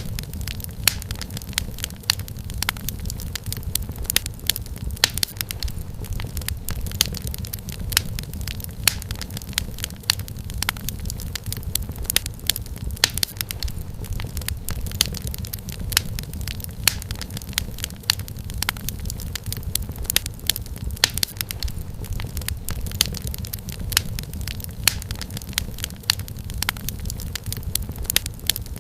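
Wood fire crackling in a fireplace: many sharp pops and snaps over a steady low rumble of burning.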